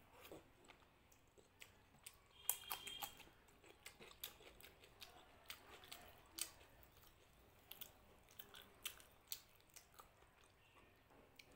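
A person chewing with irregular wet smacks and clicks while eating luchi and mutton curry by hand, the loudest smack about two and a half seconds in.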